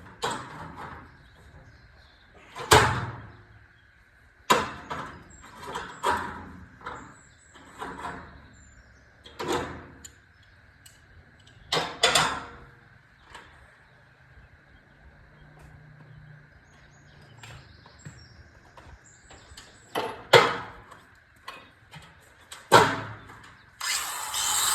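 Irregular knocks and clatters of workshop work, about a dozen, unevenly spaced, over a faint steady high hum. A loud steady noise starts just before the end.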